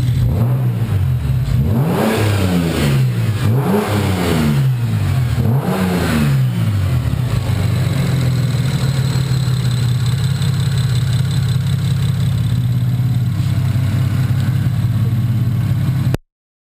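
BMW 335i turbocharged straight-six with a single Precision 6265 turbo and Horsepower Freaks exhaust, idling and then revved three times, about two seconds apart, each rev rising and falling back. It then idles steadily until the sound cuts off near the end.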